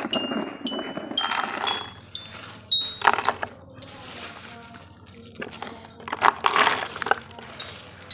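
Small pebbles clinking and clattering as they are poured and dropped to load a wooden toy truck. The stones come in several separate bursts, mixed with sharp clicks and short ringing pings.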